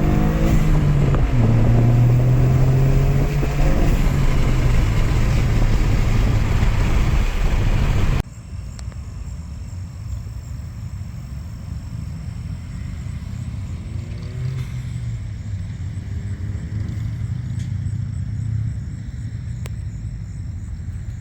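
Toyota GR Corolla's turbocharged 1.6-litre three-cylinder engine running while driving, loud and shifting in pitch as it pulls. About eight seconds in it drops abruptly to a quieter, steadier engine hum with a few gentle rises in pitch.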